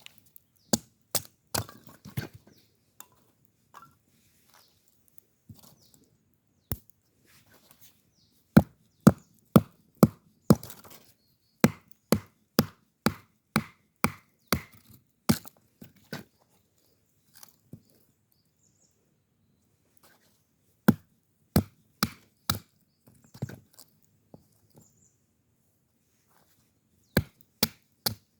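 Firewood being chopped: sharp strikes of a blade into wood in bursts, the longest a steady run of about two blows a second, with pauses between bursts.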